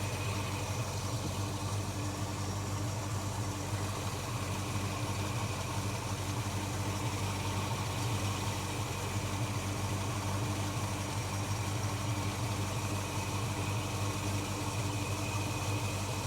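A motor or engine running steadily at a constant speed, an even hum with no change in pitch.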